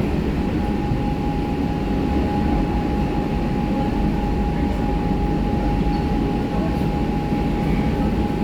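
Kolkata Metro train running between stations, heard from inside the carriage by the door: a steady rumble with a constant high whine.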